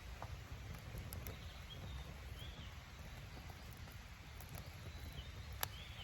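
Campfire crackling with scattered sharp pops, one louder pop near the end, over a low steady rumble, while small birds chirp now and then.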